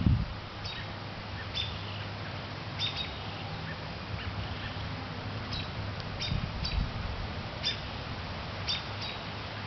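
A small bird chirping repeatedly: short, high calls about once a second, over a steady low rumble, with a couple of dull bumps.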